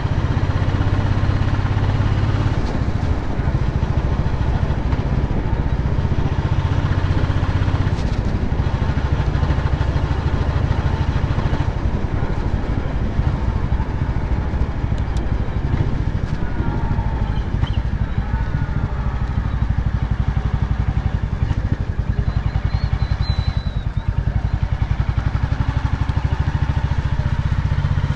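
Royal Enfield Bullet's single-cylinder engine running steadily while riding, a continuous low, even pulsing from the exhaust.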